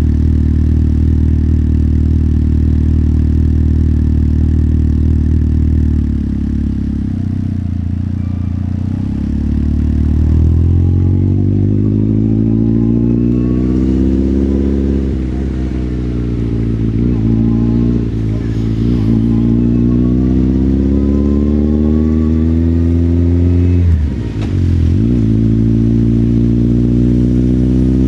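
Motorcycle engine idling steadily, then pulling away about ten seconds in and revving up and down through several gear changes.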